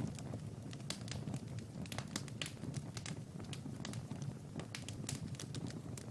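Wood fire crackling, with many irregular sharp pops and snaps over a steady low rumble of flame.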